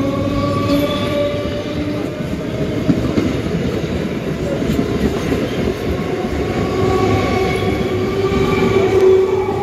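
Electric multiple unit (EMU) local train running past close by along the platform: a continuous loud rumble of steel wheels on rails with some clacking over rail joints. Under the rumble is a whining tone that drifts slowly in pitch.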